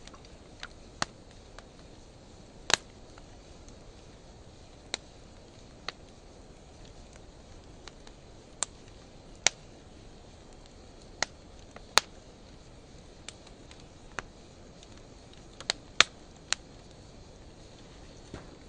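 Wood fire of driftwood and dry hardwood logs burning in a fire pit, with a steady low hiss under sharp pops and crackles that come at irregular intervals, a dozen or more, some much louder than others. The snapping comes from the dry hardwood mixed in with the driftwood.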